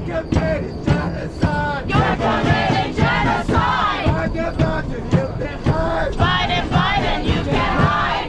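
Crowd of protesters chanting slogans in unison, many voices together, over sharp beats that keep a steady rhythm.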